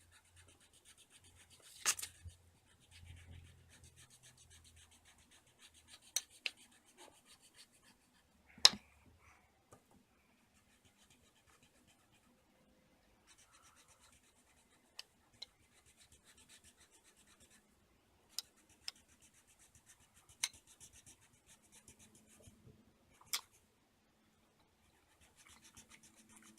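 Faint scratching of a colouring tool rubbed back and forth on paper, filling in a drawing, in stretches, with a few sharp clicks or taps scattered through, the loudest about a third of the way in.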